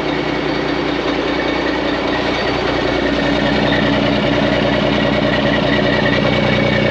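Turbocharged truck engine idling with its exhaust pipe missing, straight-piped so the exhaust leaks out open and loud; it gets a little louder about three seconds in.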